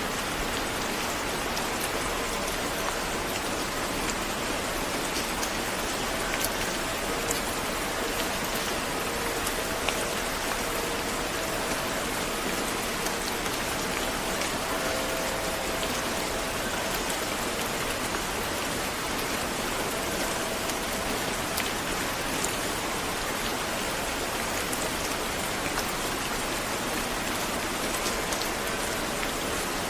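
Steady rain falling on a hard surface, with a constant hiss and many individual drops ticking through it.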